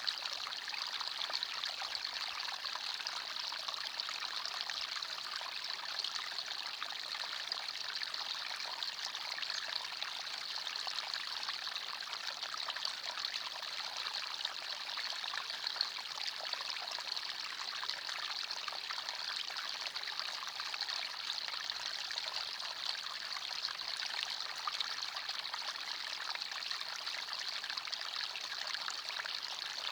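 Forest stream, water running and trickling over stones in a steady, even rush.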